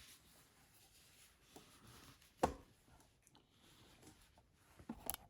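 Faint handling sounds from painting work in a small, quiet room, with one sharp tap about halfway through and a few light clicks near the end.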